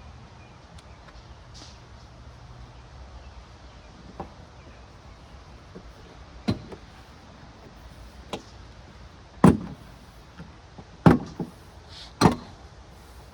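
Plastic interior trim piece being pried off a 2004 Ford Explorer, its clips popping loose in a few sharp snaps, the three loudest in the second half.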